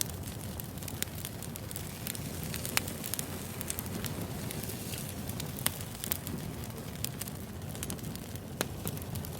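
Wood fire burning with a steady low rumble and hiss, broken by irregular sharp pops and crackles every second or two.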